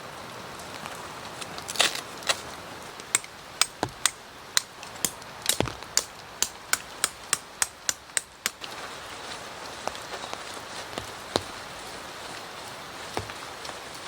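Steady rain falling, with a run of about fifteen sharp knocks, roughly two a second, from about two seconds in to about eight and a half seconds in.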